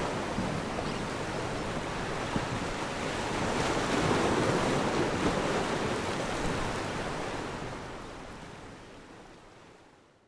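Ocean surf sound effect: a steady wash of breaking waves that swells about four seconds in, then fades out over the last few seconds.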